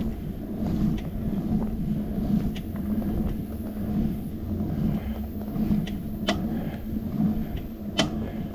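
Riding noise from a bicycle, picked up by a handlebar-mounted camera: a steady low rumble from the tyres and wind, with a few sharp clicks or knocks from bumps. The loudest knocks come about six and eight seconds in.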